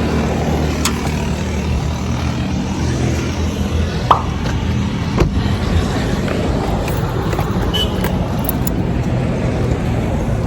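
Steady low rumble of road and engine noise inside a moving car, with a few short clicks.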